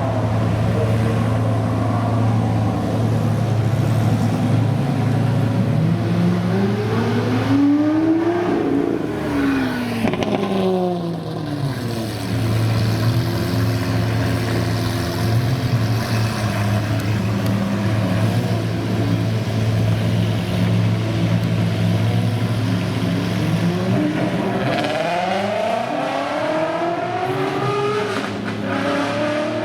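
Supercar engines revving and accelerating past over a steady low engine hum, the pitch climbing and then falling away. There are two such passes, one about six seconds in and another near the end.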